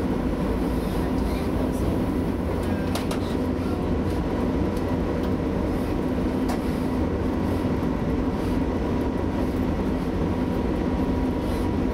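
Steady running noise inside a Class 175 diesel multiple unit at speed: the underfloor diesel engine drones under a constant wheel-and-rail rumble. A couple of faint clicks come through along the way.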